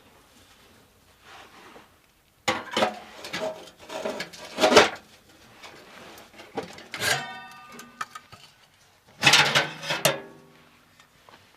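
Knocks and clatter of camping gear being handled, in several separate bursts. One of them, a little past halfway, rings briefly like struck metal.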